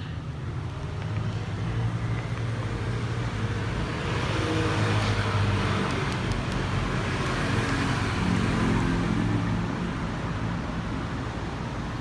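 A motor vehicle's engine running with road noise, growing louder over the first few seconds, holding, then easing slightly near the end.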